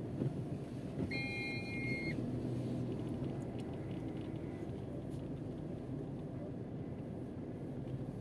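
Car engine running at low speed, a steady rumble heard from inside the cabin as the car turns. A single electronic beep lasting about a second sounds about a second in.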